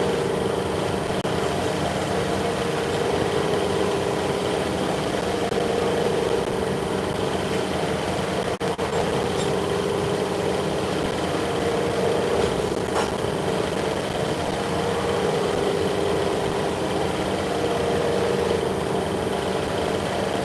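Steady hum of running workshop machinery, with a mid-pitched tone that swells and fades every few seconds.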